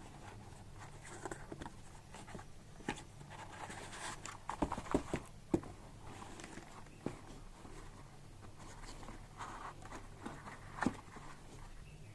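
Handling of a trimmer and its packaging: scattered clicks, taps and rustles, busiest around four to five seconds in, over a faint steady low hum.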